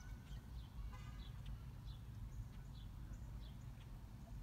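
Birds chirping in short high calls, with a rapid rattle about a second in, over a steady low rumble of wind.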